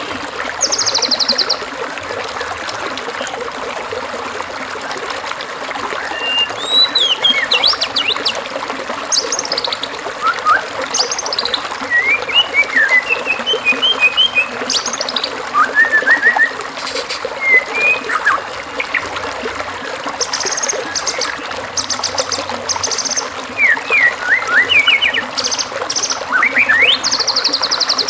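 Assorted songbird calls over a steady trickling-water background: short whistled chirps, slurred notes and fast high buzzing trills, coming in bursts. It is a masteran birdsong mix for teaching a white-rumped shama to copy other birds' song phrases.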